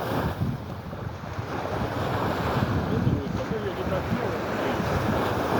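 Wind buffeting the microphone over the wash of small sea waves on the shore.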